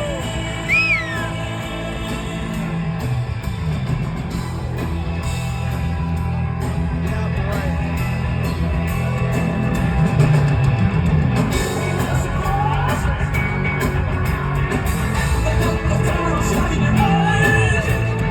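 Live rock band playing, with a heavy bass line. A short high squeal rises and falls about a second in.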